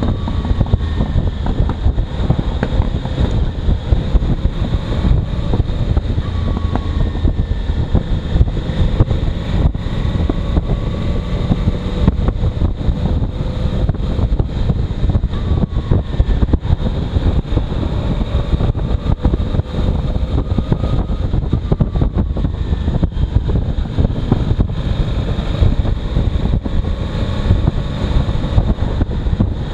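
Heavy wind buffeting on the microphone of a moving motorcycle, with the engine's faint steady drone underneath, its pitch drifting slowly up and down.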